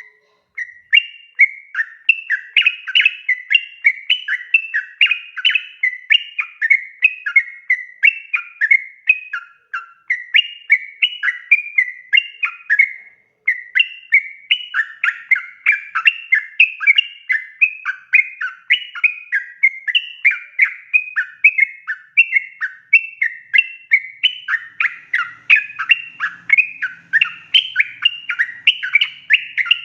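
Yellow-vented bulbul singing a long, continuous run of rapid chattering notes, with two brief breaks about ten and thirteen seconds in.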